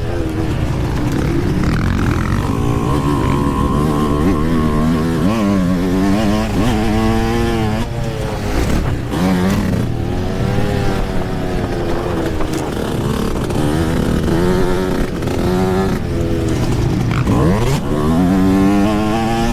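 Yamaha YZ125 two-stroke dirt bike engine revving hard and backing off again and again, its pitch climbing and falling with the throttle and gear changes.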